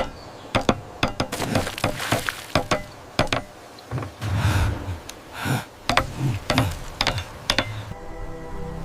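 An irregular series of sharp knocks and clinks, a dozen or more, with two short rushing swells near the middle.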